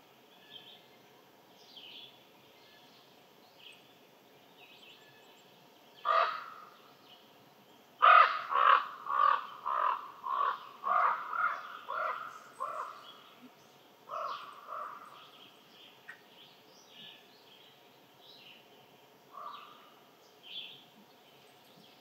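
A bird calling loudly: one call, then a quick run of about ten calls, roughly two a second and fading, then two more spaced calls. Fainter high chirps of small birds run underneath.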